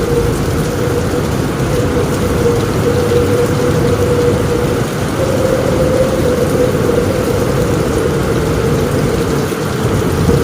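Heavy rain on a roof in a storm with strong wind: a dense, steady rush with a deep rumble underneath and a steady, slightly wavering drone.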